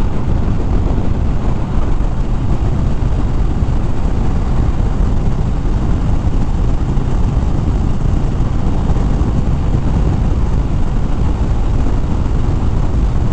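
Harley-Davidson Fat Bob's V-twin engine running at steady cruising speed with wind rushing over the microphone: a steady, even low rumble.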